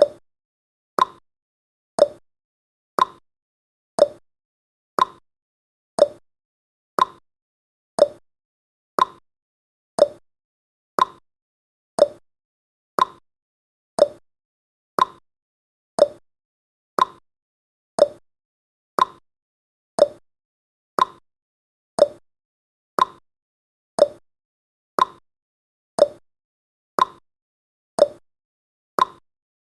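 Clock-tick sound effect of a countdown timer: one short tick every second, alternating a higher and a lower tick like a tick-tock.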